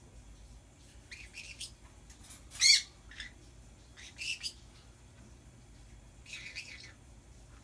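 Pet birds calling in short bursts of high chirps and squawks, four groups in all, with the loudest sharp squawk a little before the middle.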